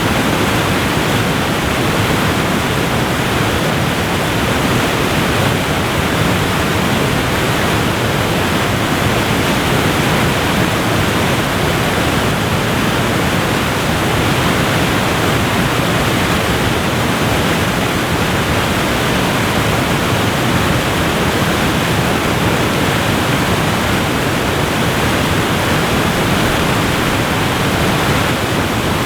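Waterfall pouring steadily: a dense, even wash of falling water with no breaks or changes.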